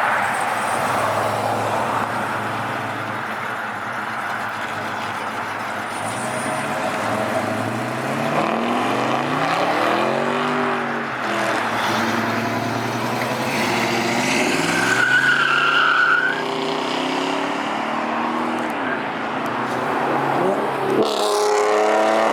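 Cars driving past one after another, their engines revving up and easing off. A sharp rev climbs just before the end.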